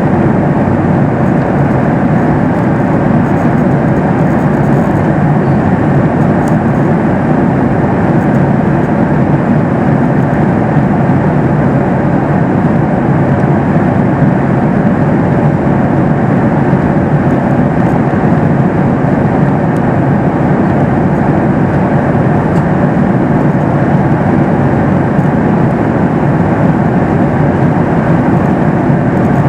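Steady cabin noise inside a Boeing 737 MAX 8 airliner in cruise: an even rush of airflow and engine hum.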